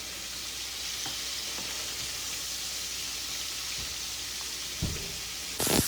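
Breaded shrimp deep-frying in hot cooking oil, a steady sizzle that grows louder near the end.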